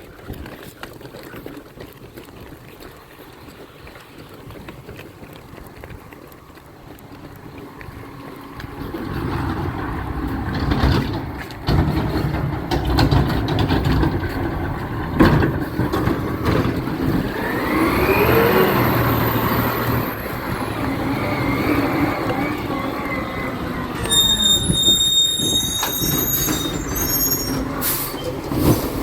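Recycling truck coming by. Its engine grows louder about a third of the way in, then its pitch rises and falls, with a couple of sharp knocks and an air-brake hiss. High tones come in near the end.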